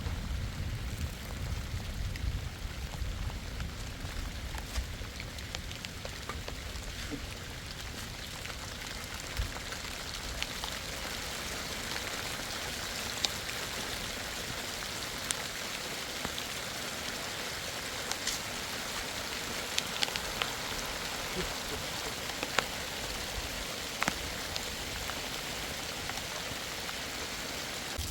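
Steady heavy rain, with scattered sharp drop hits standing out now and then. A low rumble under the rain in the first several seconds fades out.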